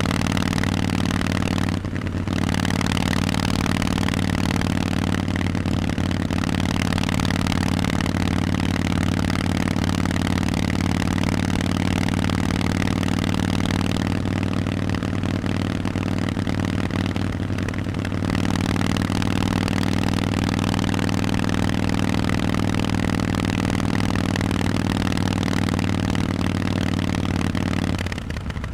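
Harley-Davidson Forty-Eight's air-cooled V-twin running through Vance & Hines exhausts on the move, a steady engine note with short dips about two seconds in and again between about fourteen and eighteen seconds. The sound falls away near the end.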